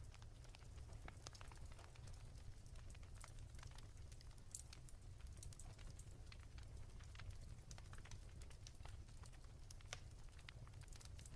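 Wood fire crackling softly: scattered, irregular little pops and snaps over a low steady rumble.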